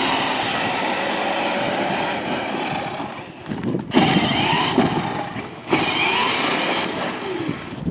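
Battery-powered ride-on toy car driving, its electric motor and gears whining and rising and falling in pitch as the pedal is worked. The whine drops out briefly twice, about three and a half and five and a half seconds in.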